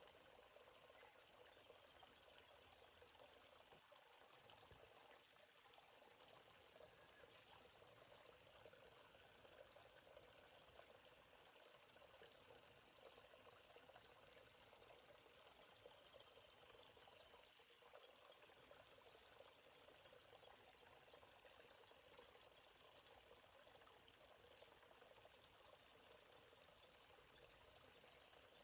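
Steady high-pitched chorus of insects, with the faint, even rush of a stream underneath.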